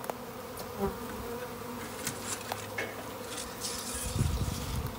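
Honey bee swarm buzzing, a steady many-winged hum. About four seconds in, a low rumble of wind on the microphone rises over it.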